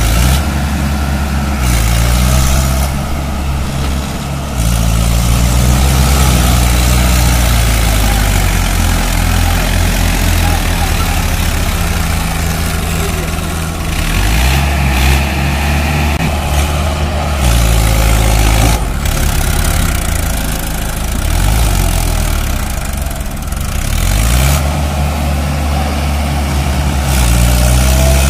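Mahindra 555DI tractor diesel engines running hard. The engine pitch falls and rises several times as the throttle is worked: dropping about two to four seconds in, climbing again around fourteen seconds, sagging around twenty seconds and rising again near the end.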